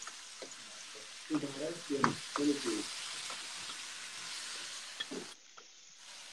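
Sliced zucchini and shrimp sizzling in a wok while being stirred with a spatula: a steady frying hiss that drops away about five seconds in.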